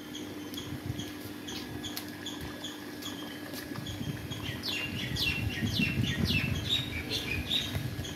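Small birds chirping: a quick series of short, high, falling calls, sparse at first and busiest in the second half, over a faint steady low hum.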